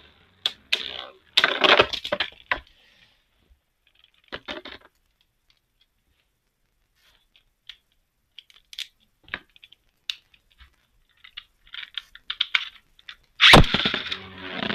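Beyblade Burst tops and gear giving off scattered plastic clicks and short rattles as they are handled. Near the end a sudden loud launch sets in, followed by the steady whirring scrape of tops spinning in the stadium.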